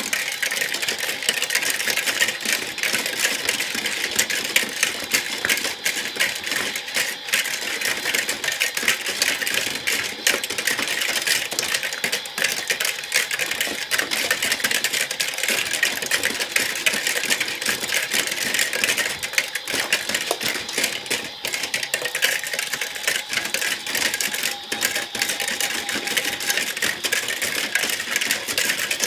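Battery-powered toy washing machine running: a steady, fast clicking rattle from its small motor and plastic drum.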